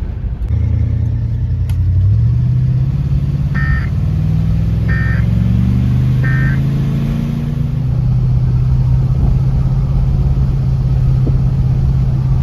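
Cadillac Coupe de Ville's V8 engine pulling away, its note rising over the first couple of seconds and then running steadily. Three short high beeps sound in the middle, about a second and a half apart.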